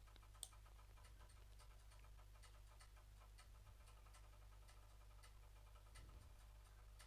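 Near silence: a low steady hum with faint scattered computer mouse clicks, one sharper click about half a second in.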